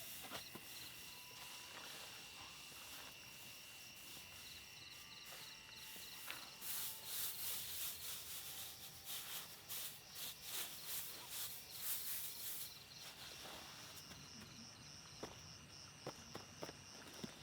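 Insects chirping in steady high trills at several pitches, with a spell of rustling crackles in the middle.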